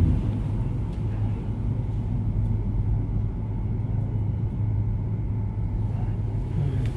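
Steady low hum with an even rumble underneath, unchanging throughout, with no voice.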